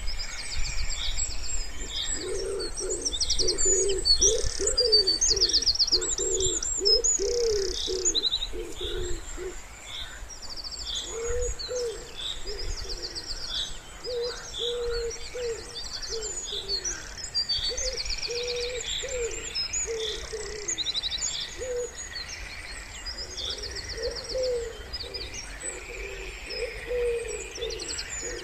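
Wood pigeon cooing in repeated low phrases, pausing for a couple of seconds about a third of the way in, while small songbirds sing fast high trills and chirps over it.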